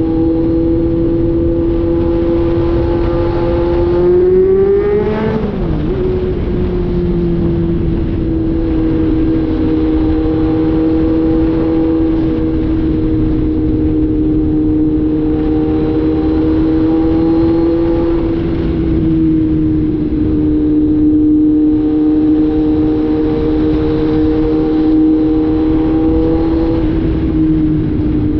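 Kawasaki Z900 inline-four running with its catalytic converter removed, holding a steady engine speed while being ridden. The revs climb briefly about four seconds in, then drop sharply and settle again.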